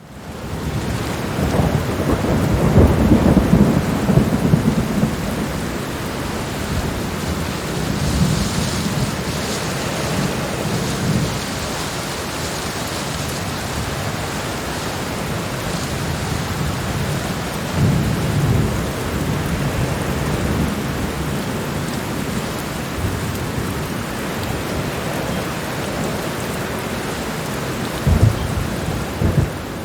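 Thunderstorm: heavy rain falling steadily with thunder rumbling several times, a long rumble a few seconds in, others near the middle, and a sharper crack near the end.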